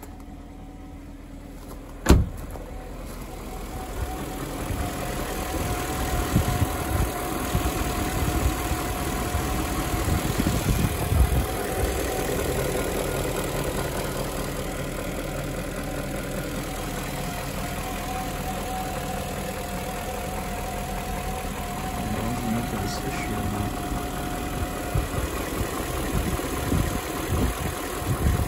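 BMW E38 740i's 4.4-litre V8 running at idle, getting louder about four seconds in, with a thin steady whine over the engine sound. A single sharp knock comes about two seconds in.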